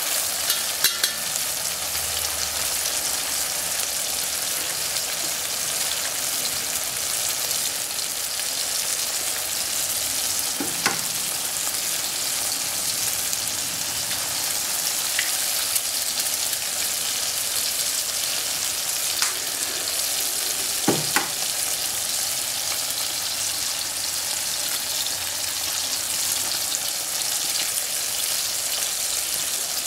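Sausage slices, yellow peppers and tomatoes sizzling steadily in hot oil in a wok, with a sharp tap about a third of the way in and a quick double tap about two-thirds through.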